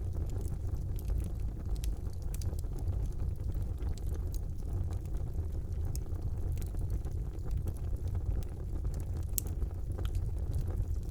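Wood fire burning in a fireplace: a steady low rumble of flames with frequent sharp crackles and pops, the loudest pop about nine and a half seconds in.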